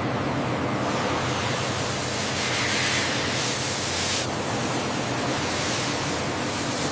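Steady, loud rushing hiss of industrial machinery noise, getting brighter for a second or so in the middle and cutting off suddenly near the end.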